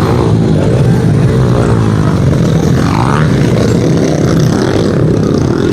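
Several small pit bike engines racing together, revving hard. The whine rises and falls in pitch as the riders shift and throttle through the lap.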